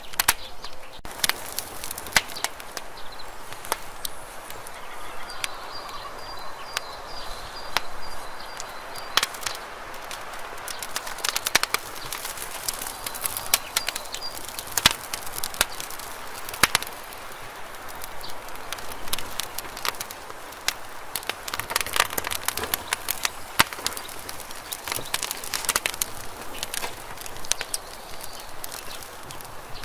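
Campfire burning: wood crackling and popping in irregular sharp snaps over a steady hiss.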